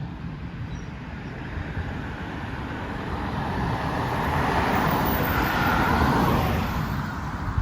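A car passing by on the road, its tyre and engine noise swelling over a few seconds and fading near the end, over a steady low rumble of traffic.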